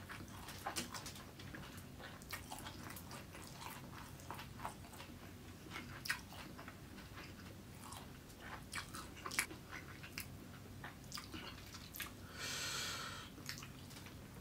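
Close-miked chewing of hand-eaten fried rice, with many small wet clicks and smacks of the mouth. A brief hiss lasts about a second, some twelve seconds in.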